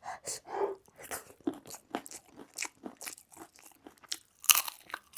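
A person chewing crunchy food close to the microphone: quick, irregular, crisp crunches, loudest about four and a half seconds in.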